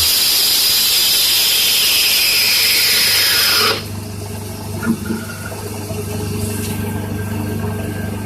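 CNC lathe turning a workpiece: a loud, high-pitched cutting squeal with a steady tone and a second tone that slowly falls, which stops abruptly after about three and a half seconds. The machine's steady low hum and a few light clicks follow.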